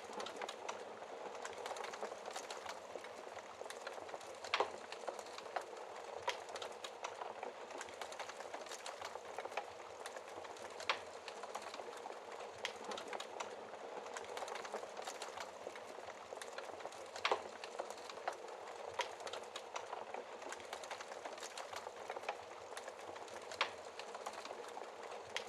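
Wood fire crackling in a fireplace: a steady hiss of burning with irregular sharp snaps and pops, a handful of them louder than the rest.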